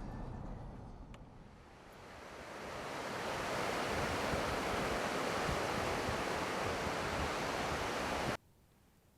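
A steady rushing noise that swells over about two seconds, holds loud and even, then cuts off abruptly near the end.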